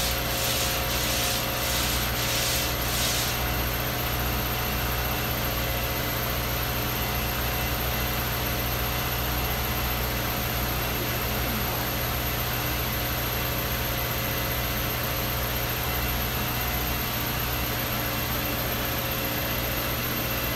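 Steady mechanical hum of the car idling in a refrigerated cold-test chamber, along with the chamber's fans. For about the first three seconds, wiper blades sweep the frosted windshield with a rhythmic rasp about twice a second, then stop.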